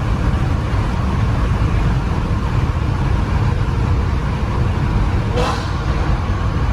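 Ferrari with a straight-pipe exhaust running at a steady pace, a deep even rumble with no revving. A short sharp sound cuts in about five and a half seconds in.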